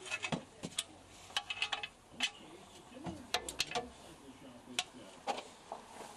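Sharp metallic clicks and clinks from hand tools and metal parts being worked on an engine: a few quick clusters and several single clicks.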